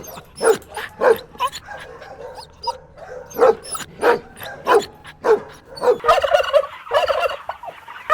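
Animal calls: a series of short, sharp calls about twice a second, then, from about six seconds in, a rapid rolling, warbling call.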